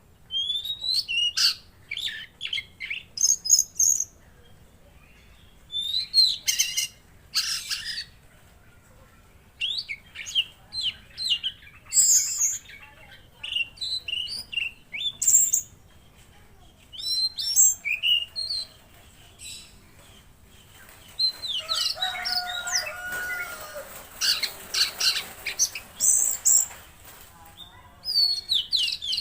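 Tledekan laut songbird singing: quick bursts of high chirps, trills and gliding whistles with short pauses between them, and a longer, denser run of song a little past the middle.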